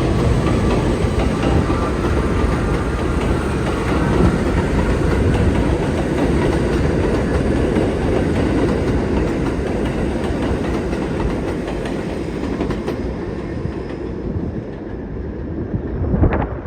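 New York City subway train running along the elevated track, a steady loud rumble of wheels on rail that slowly fades over the last few seconds. A brief sharp clank comes near the end.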